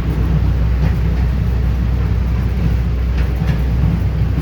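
Train running along the track, a steady low rumble with a few faint clacks.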